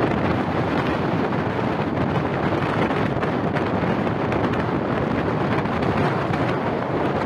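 Wind rushing over the microphone, mixed with the steady running noise of a moving passenger train.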